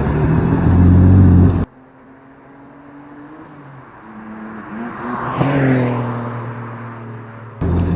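BMW 328i's N52 straight-six with its muffler deleted, running loud at a steady note after easing off a rev. It cuts off suddenly about a second and a half in to a much quieter stretch where a faint engine note rises and fades. Near the end the loud exhaust cuts back in, revving up.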